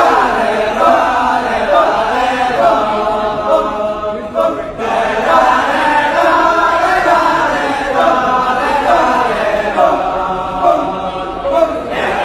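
Kecak chorus: many voices chanting and singing together without instruments, with a brief break about four and a half seconds in.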